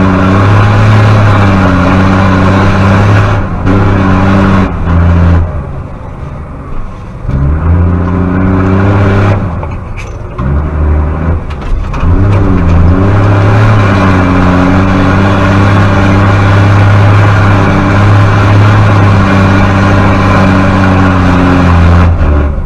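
Rally truck's diesel engine running hard under load. Its pitch drops several times as the throttle lifts or gears change, then climbs back up.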